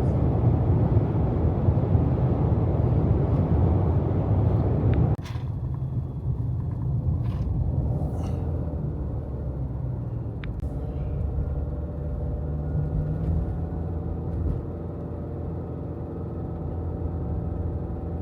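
Car on the road, heard from inside: a steady low rumble of road and engine noise that drops a step quieter about five seconds in, with a few faint clicks.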